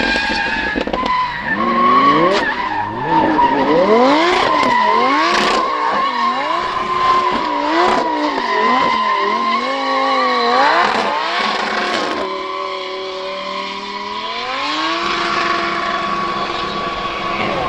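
Drift car engine revving up and down in quick, repeated swings with a steady tyre squeal over it. Near the end the revs climb once more and hold.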